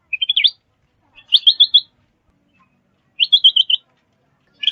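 A songbird singing short, quick phrases of four or five high chirping notes, about half a second each, with pauses of roughly a second between them; a fourth phrase starts near the end.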